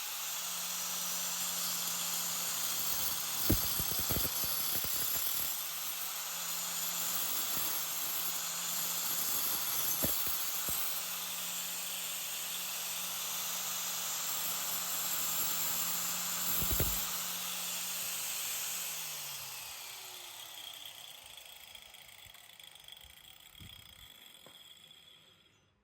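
Angle grinder with a cut-off disc cutting through 10 mm aluminium, a steady hissing whine over a low motor hum, with three brief knocks. About nineteen seconds in the grinder is switched off and the disc winds down, falling in pitch as it fades out.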